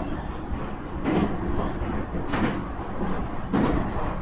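Nankai 2300 series electric train running, heard from inside the car: a steady rumble with a wheel clack over rail joints about every second and a bit, four times.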